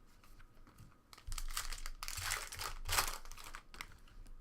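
Trading-card pack wrapper crinkling as it is torn open and handled, a run of rustling bursts starting about a second in, loudest near the end.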